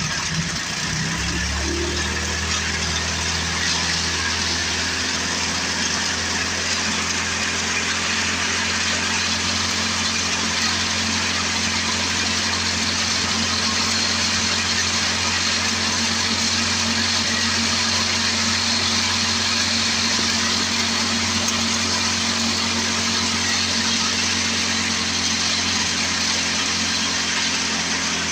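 Old Tecumseh engine on a Craftsman 24-inch snowblower, running after a cold start. It is uneven for about the first second and a half, then settles into a steady, even run.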